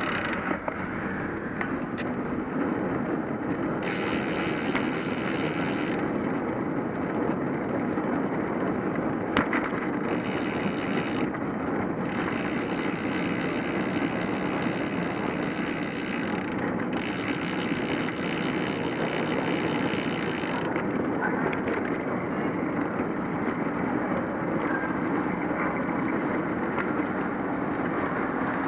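Steady rushing noise of riding a cyclocross bike: tyre roar on the road mixed with wind on the microphone, with a few small clicks.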